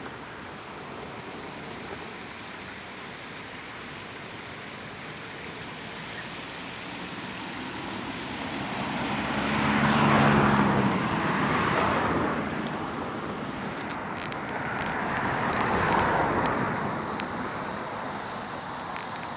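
Road traffic: two vehicles pass one after the other, each engine sound rising and fading, the first the louder, about halfway through and again a few seconds later, over a steady traffic hum. Scattered sharp clicks are heard near the end.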